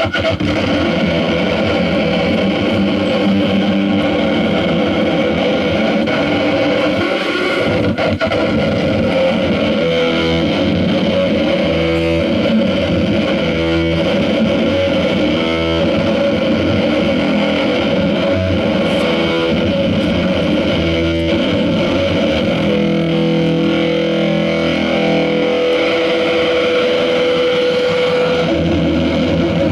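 Live noise music: a loud, dense wall of distorted, effects-processed instrument sound over a steady drone, with a stuttering pulse in the middle and a held tone near the end.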